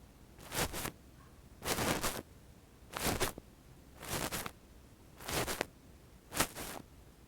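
Fluffy earpick brushed against the microphone in six soft swishing strokes, about one a second.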